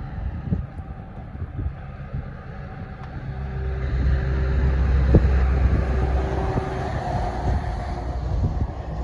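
An engine rumbling steadily, growing louder about a third of the way in and easing off again near the end, with a few thumps.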